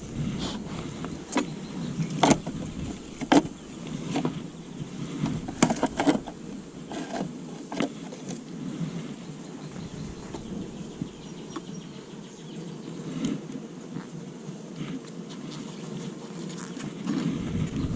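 Honeybees buzzing as a steady low hum around an open hive, with scattered sharp clicks and knocks from the hive being handled.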